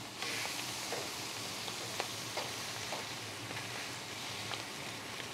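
Salmon skin sizzling on a hot flat-top griddle just after being flipped. The hiss swells a moment in and then holds steady, with a few faint clicks.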